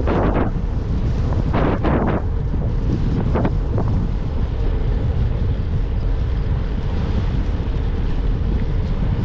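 Wind buffeting the microphone on a moving bicycle: a steady low rumble, with several short gusts swelling in the first four seconds.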